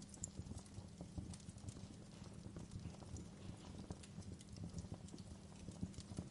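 Wood fire crackling: irregular small pops and snaps over a low, soft rumble of burning logs.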